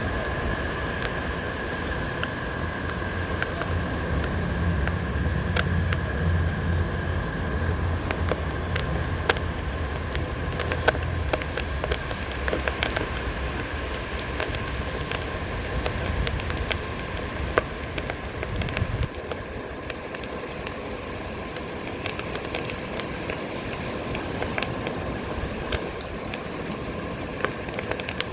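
Onewheel riding over beach sand: wind buffeting the microphone in a low rumble that eases off about two-thirds in, surf washing, and scattered sharp crunches of shells under the tyre.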